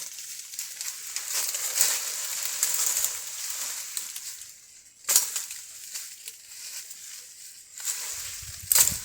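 Dry branches and brush crunching and rustling, with a sharp knock about five seconds in and another near the end.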